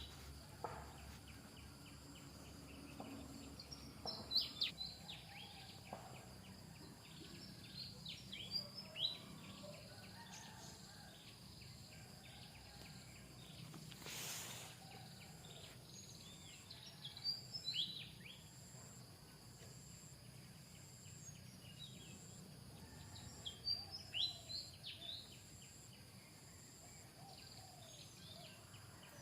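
Faint outdoor ambience: a steady high insect drone, with bursts of short, high, falling chirps every few seconds and a brief rush of noise about halfway through.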